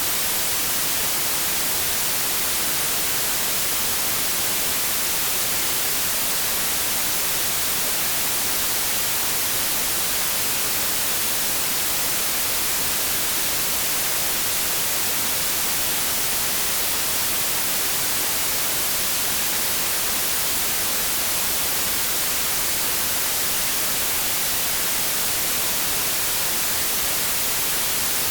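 Continuous synthetic white noise: an even, steady hiss, brightest in the treble, with no change or break.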